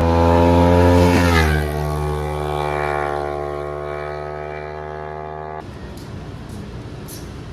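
Sport motorcycle engine running at high revs as it passes, loudest at the start; its pitch drops about a second in, then holds and sinks slowly before the sound cuts off suddenly.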